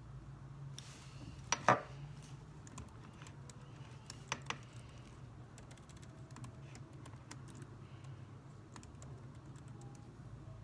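Typing on a computer keyboard: scattered keystrokes with irregular pauses, including a louder pair of clacks about a second and a half in and another pair about four seconds in, over a low steady hum.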